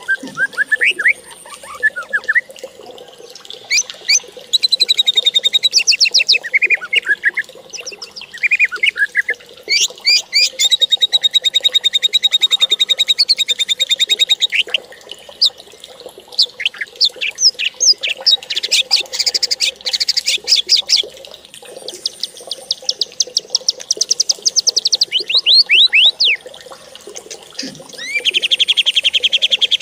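A songbird singing long, varied phrases of fast trills and chirps, with short pauses between them.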